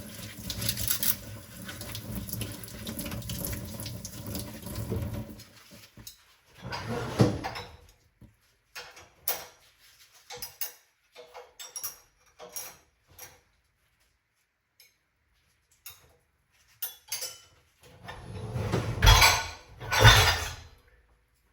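Kitchen tap running into the sink, shut off about five seconds in. Then scattered clinks and knocks of dishes and cutlery being handled, with two louder, heavier knocks near the end.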